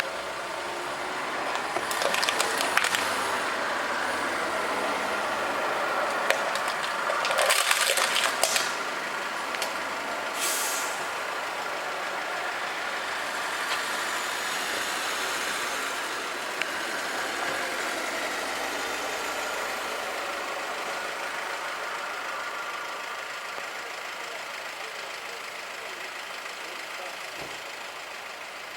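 Street traffic running steadily, with short hissing bursts about two seconds in, again around seven to eight seconds, and once near ten seconds.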